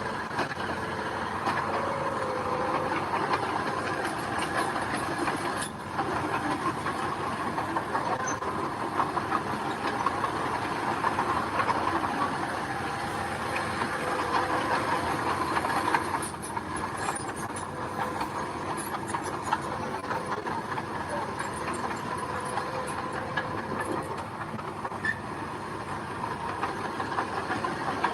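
Bulldozer at work: its diesel engine runs steadily, with a few scattered clicks.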